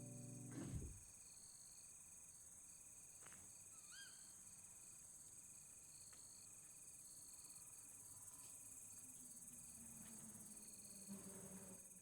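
Faint chirping of insects: a steady high buzz with evenly pulsed cricket-like trills repeating throughout. A low thump sounds near the start, and a single short curving call about four seconds in.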